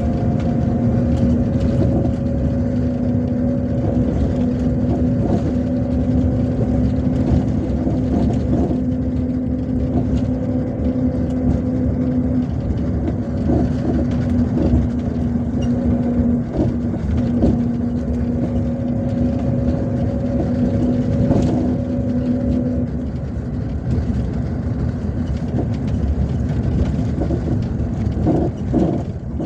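MAZ-257 bus running on the road, heard from inside: a low rumble of engine and tyres with a steady drone that holds, breaks off briefly midway, and stops a few seconds before the end.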